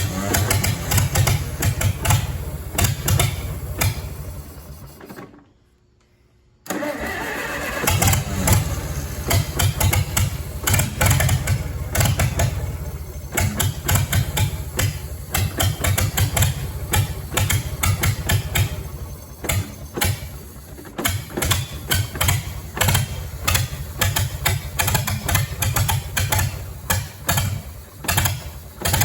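Old Farmall tractor engine running roughly and unevenly, with an irregular beat. It dies away about four seconds in, and after a short gap it is running unevenly again. The engine won't stay running, which the owner puts down to the carburetor.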